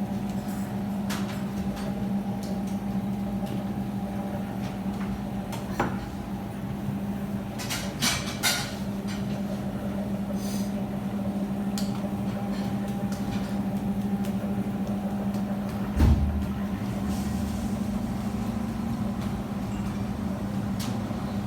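An engine running at a steady speed, its even hum unbroken, with a few short clicks and a single low thump about 16 seconds in.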